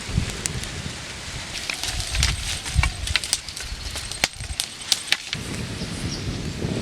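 Open wood fire crackling with irregular sharp pops, a coconut roasting in its shell in the flames, along with a few low thumps and rustling from handling.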